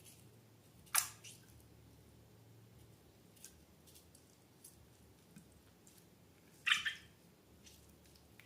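Handling sounds of slime and balloons: two short, sharp sticky snaps about six seconds apart, with faint small clicks in between.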